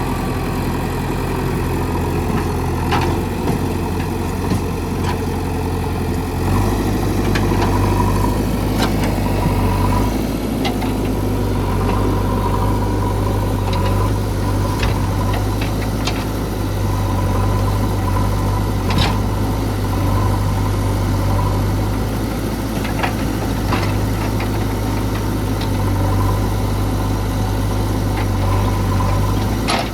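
JCB 3DX backhoe loader's diesel engine running steadily, its note changing to a heavier, steadier drone about six seconds in. Scattered sharp knocks and cracks sound over the engine.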